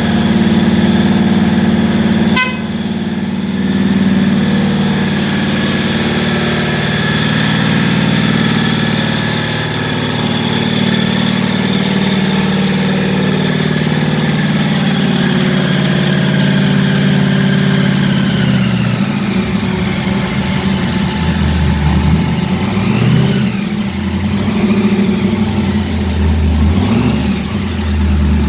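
1932 Ford rat rod's engine idling steadily, with a sharp click a couple of seconds in. About two-thirds through, its note drops lower and turns uneven, rising and falling several times near the end.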